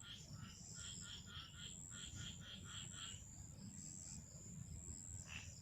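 Faint night-time wildlife: a quick run of short, evenly repeated calls, about four a second, stops about three seconds in, over a steady high-pitched insect trill.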